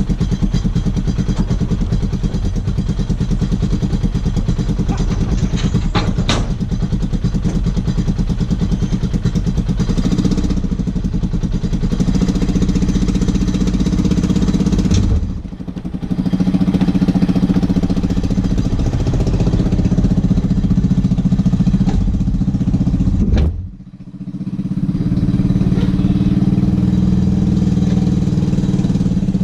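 Arctic Cat side-by-side's engine running steadily and loud close by, dropping away sharply twice, about halfway through and again near three-quarters of the way, each time coming back up.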